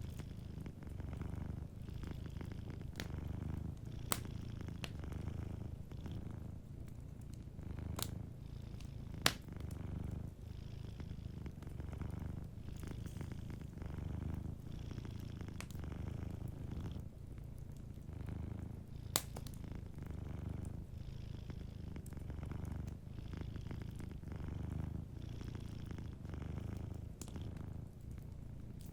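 Domestic cat purring steadily, the low purr swelling and easing with each breath about every second and a half. A few sharp pops of a wood fire crackling cut through it, the loudest about nine seconds in.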